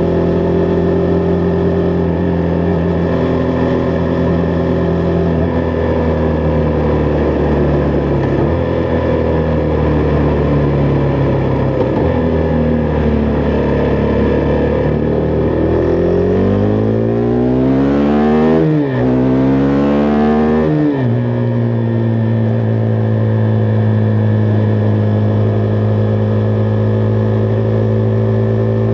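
Husqvarna Vitpilen 401's single-cylinder engine running steadily at cruise. About 16 seconds in it revs up, with the pitch climbing, dropping sharply at an upshift, climbing again and dropping at a second upshift. It then settles into a steady cruise.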